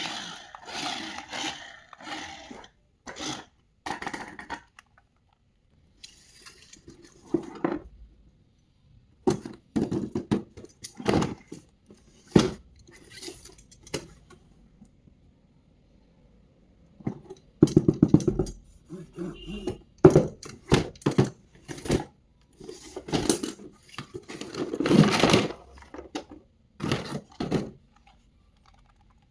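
Hands handling a plastic toy and its packaging: irregular clicks, knocks and rustles, busiest in the second half.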